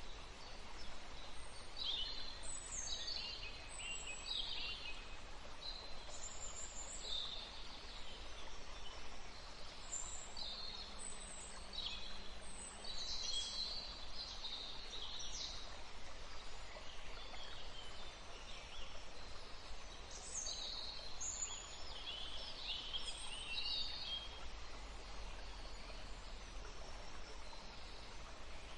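Several songbirds chirping and singing, short high notes and trills overlapping one another throughout, over a steady background hiss.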